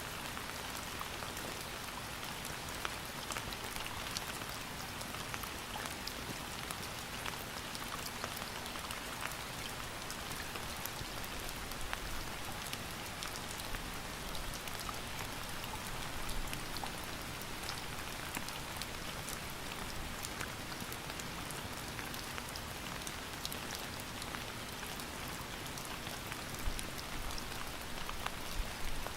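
Steady rain with a dense patter of individual drops striking a surface, an even hiss without pause.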